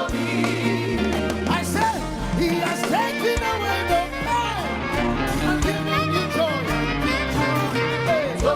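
Live gospel praise music: a band with bass and drums playing an upbeat song, with singing over it.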